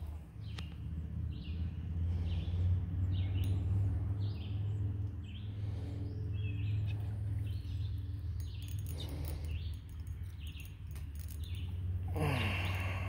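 A bird calling with short chirps repeated about once a second, over a steady low rumble. A louder, noisier sound comes in near the end.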